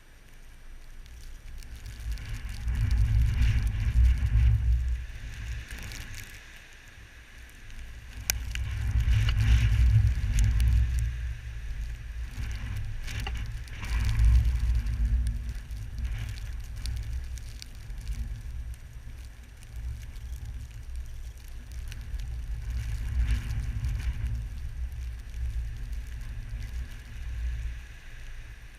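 Blizzard wind gusting in waves, buffeting the microphone with a low rumble, over a steady hiss with scattered light ticks.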